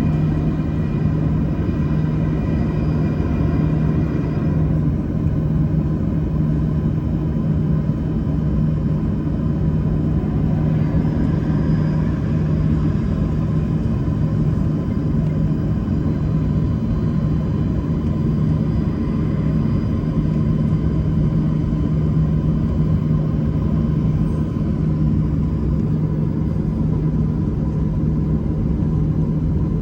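Steady engine drone with a constant low hum, some fainter high tones dropping away about five seconds in.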